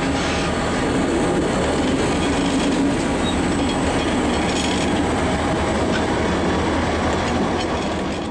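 A freight train moving slowly: empty coil cars and gondolas rolling on the rails as two EMD diesel road-switchers (a GP40 and a GP35-3) shove them back into a yard. The sound is steady throughout.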